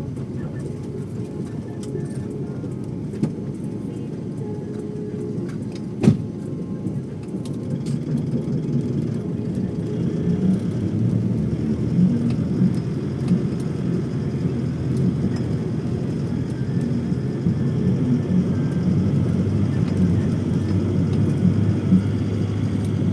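Steady low rumble of a moving vehicle, growing slightly louder, with a single sharp click about six seconds in.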